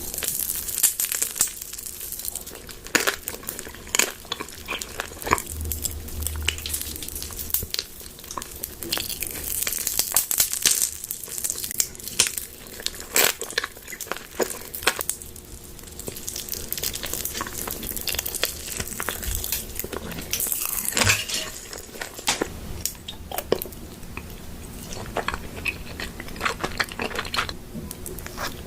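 A person biting and chewing crunchy food: many sharp, irregular crunches.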